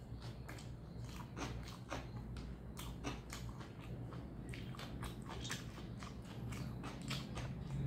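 Close-miked chewing of hand-fed mouthfuls of rice and curry: many quick, irregular wet mouth clicks and smacks over a steady low hum.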